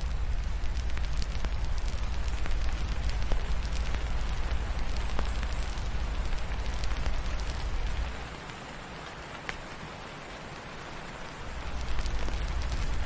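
Steady rain hiss mixed with the occasional small crackles and pops of a wood fire, over a deep low rumble. The rumble drops away about eight seconds in and returns about four seconds later.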